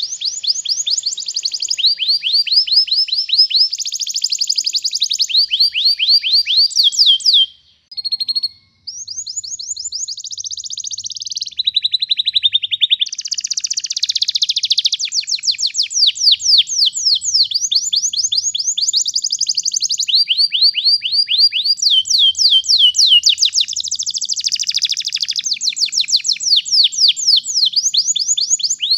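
Domestic canary singing long rolling trills: fast runs of quickly repeated downsweeping notes, moving from one roll to the next every second or two, with one brief pause about eight seconds in.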